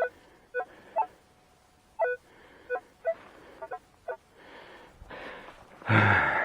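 Metal detector giving short, irregular beeps that shift a little in pitch, a patchy signal that comes and goes, which the detectorist takes for a rubbish target. Near the end there is a louder rustling scrape.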